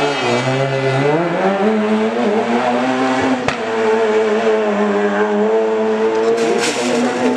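Rally car engine at full throttle, its pitch dipping and then climbing as it accelerates and holding a steady high note, with a single sharp crack about three and a half seconds in.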